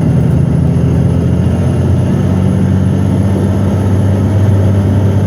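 Western Star logging truck's diesel engine running steadily under load, heard from inside the cab as a deep drone whose pitch shifts slightly about two seconds in.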